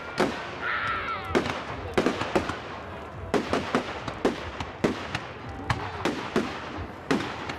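Firework display: a rapid, irregular series of aerial firework bangs, about two a second, each echoing briefly.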